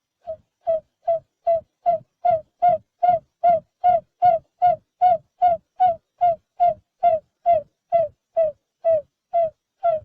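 Barred buttonquail giving its hooting call: a long, even series of short, low hoots, about two and a half a second, each dipping slightly in pitch, the series growing louder over the first couple of seconds.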